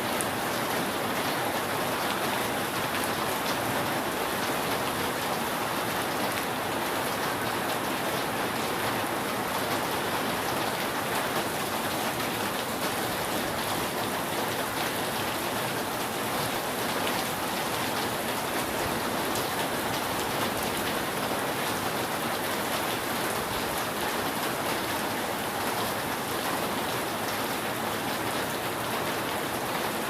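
Steady rain falling on a roof: an even wash of many small drop impacts that doesn't change, with no thunder.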